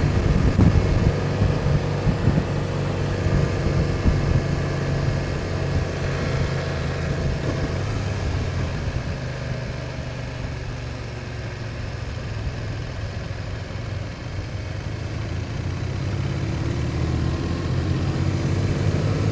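BMW R1200 motorcycle's flat-twin boxer engine running under way, heard from the rider's seat. The engine note eases off in the middle and builds again near the end.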